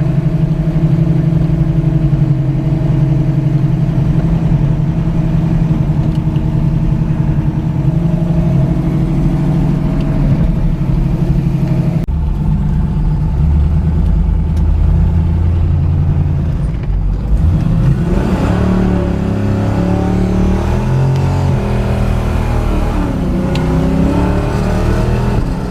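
Hot-rodded Chevrolet Nova's engine under way: a steady cruising drone for about twelve seconds, an abrupt change in its note, then from about eighteen seconds in its pitch rises and falls repeatedly as the revs go up and down.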